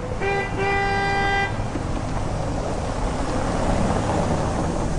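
A vehicle horn sounding twice at one steady pitch: a short toot, then a longer honk of about a second. A steady rushing noise follows.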